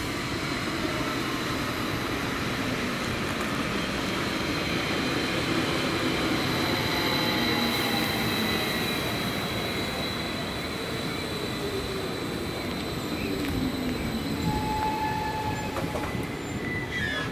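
Electric multiple-unit passenger train rolling past, with a steady rumble of wheels on rail and a thin, high, steady wheel squeal over most of it. A lower whine slowly falls in pitch midway through.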